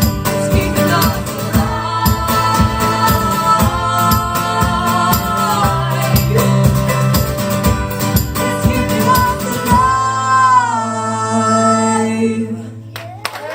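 Live music with singing and a steady beat, reaching its final chord about ten seconds in; a held note then slides and dies away shortly before the end.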